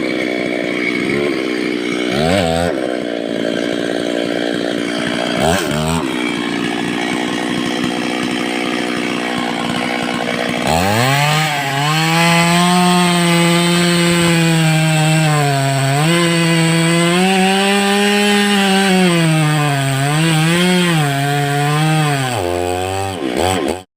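Stihl two-stroke chainsaw running at low speed with a few quick blips of the throttle, then revved up to full speed about ten seconds in and held there, its pitch dipping now and then as it cuts into wood. It drops back toward idle near the end.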